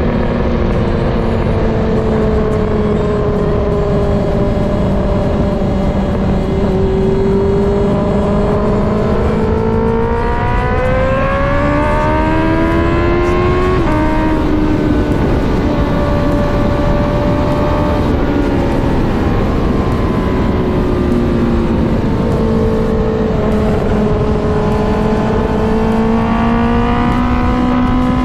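Honda CBR650R inline-four engine running through an aftermarket full exhaust while riding. The engine note eases, climbs through the revs, drops sharply with an upshift about halfway in, then sags and rises again near the end, over a heavy low rumble.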